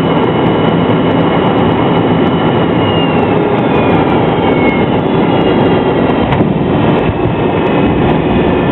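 McDonnell Douglas MD-83 airliner noise: a loud, steady rumble with rattling, and a faint engine whine that falls in pitch. A single knock sounds about six seconds in.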